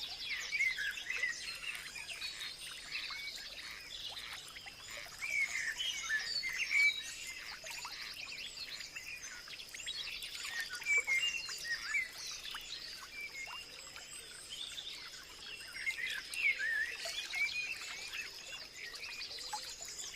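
Many birds chirping and calling at once, a dense chorus of short rising and falling calls, over a steady high-pitched tone.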